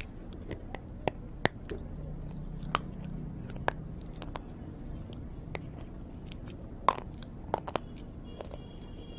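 A person biting and chewing crunchy roasted food close to the microphone, with irregular sharp crunches.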